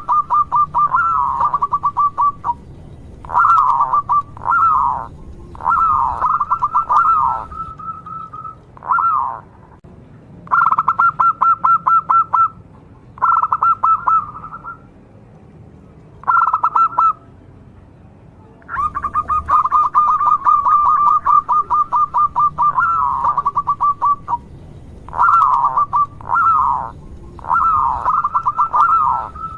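Local zebra dove (perkutut) calling: repeated bouts of rapid, evenly pulsed coos held at one pitch, some breaking into short swooping notes, with brief pauses between bouts.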